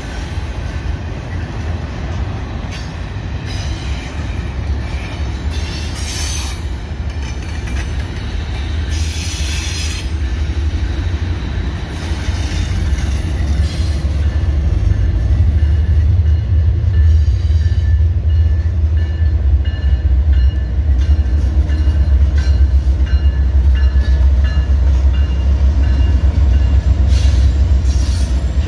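Union Pacific double-stack intermodal train rolling past, with a steady rumble of wheels on rail and high wheel squeal. The deep rumble grows louder about halfway through as the mid-train diesel locomotives draw near.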